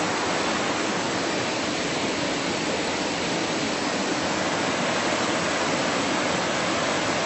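Steady rush of a fast creek flowing just above a tall waterfall, heard close up while wading across it.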